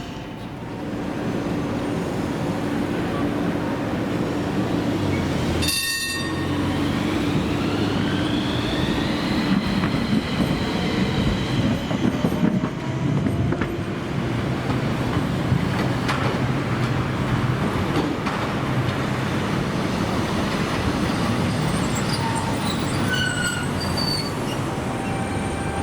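Low-floor tram (light rail vehicle) running on street track. A short ringing note comes about six seconds in, then a whine that rises in pitch over several seconds as the tram gathers speed, with some high wheel squeal near the end.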